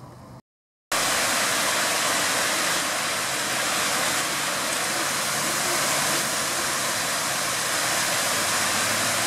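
Steady, loud rush of falling water, like a waterfall, starting abruptly about a second in after a brief silence.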